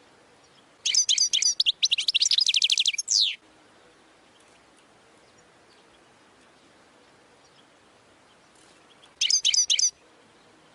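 European goldfinch singing: about a second in, a phrase of quick twittering notes runs into a fast trill and ends on a falling note; near the end comes a second, shorter twittering phrase.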